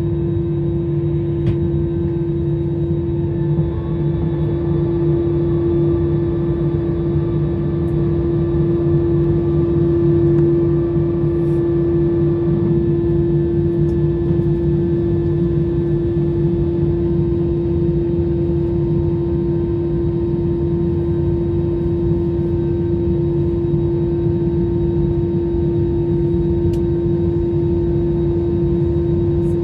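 Jet airliner cabin noise: the engines drone steadily with a constant hum over a low rumble, heard from inside the cabin.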